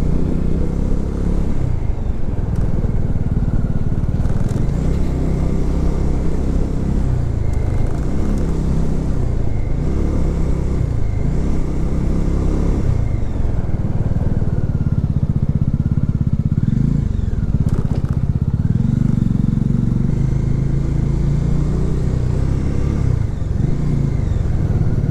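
Motorcycle engine running under way, its note rising and falling again and again as the throttle is worked on a rough mountain road.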